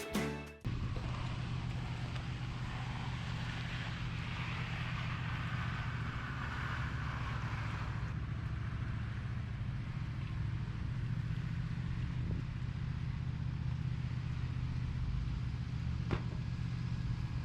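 An engine running steadily at a constant speed, with a single faint sharp tick near the end.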